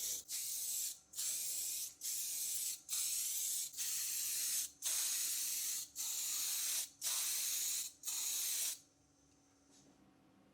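Pressurised spray hissing in short bursts of just under a second each, about one a second, roughly nine in a row, stopping about nine seconds in.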